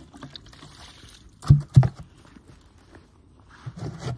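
Two loud, dull thumps in quick succession about a second and a half in, followed by softer rustling and handling noises near the end.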